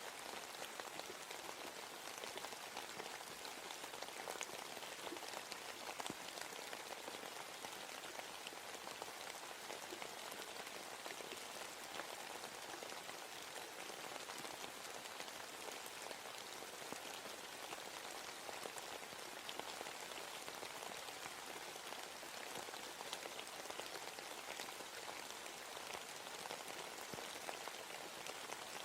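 Steady rain falling in a forest, an even hiss dotted with the ticks of individual drops striking leaves and the ground.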